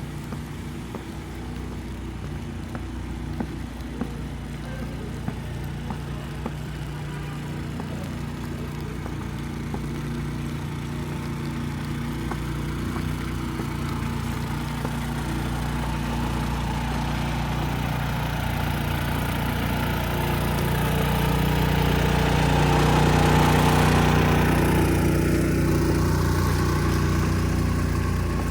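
A motor vehicle's engine running with a steady low hum, growing gradually louder and loudest about three-quarters of the way through, then easing off slightly.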